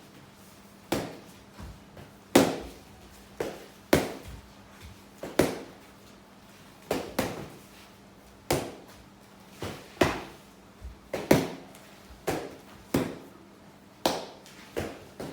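Foam pool noodles whacking against blocking forearms: sharp slaps at an uneven pace of about one a second, each with a short echo of a small room.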